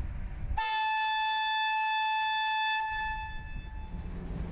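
Train air horn sounding one long, steady blast of about two seconds that starts suddenly, then fades away.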